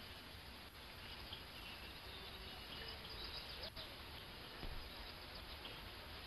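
Faint outdoor ambience: a steady low hiss of background noise with scattered faint bird chirps and a couple of soft clicks.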